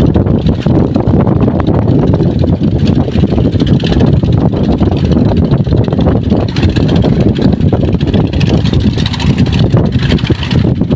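Engine running steadily with a loud, continuous low rumble, mixed with wind buffeting the microphone.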